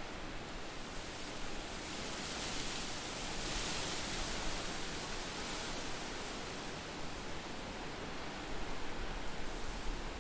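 Steady rushing nature ambience, an even hiss with no distinct events, swelling for a few seconds around the middle.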